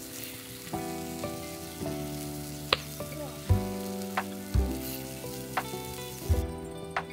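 Food sizzling as it fries in a pan over a campfire, with a few sharp clicks, under background music playing slow chords. The sizzle drops away near the end.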